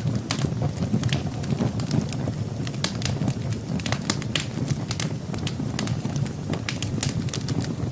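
Wood fire burning in a fireplace, the logs crackling with frequent sharp, irregular pops over a steady low rumble.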